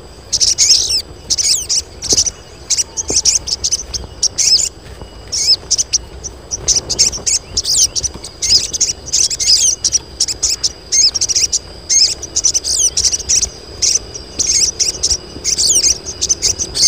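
Several female sogon birds (ashy tailorbirds) chirping: rapid, high, overlapping calls in quick clusters with brief gaps. These are the busy calls of females in breeding condition, used to call up males.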